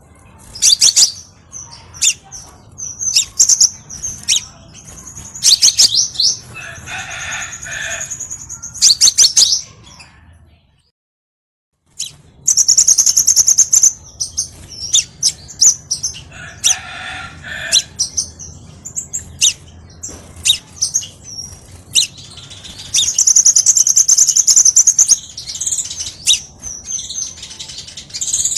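Crimson sunbird song played as a tutor and lure recording: rapid, sharp, high-pitched chirps and twittering trills in quick phrases. The sound cuts out completely for about a second, about eleven seconds in, then the song starts again.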